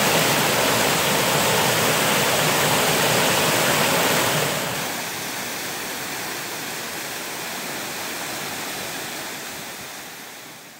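Steady rush of falling water from a waterfall. It is loud at first, drops in level suddenly about halfway through, and fades out at the end.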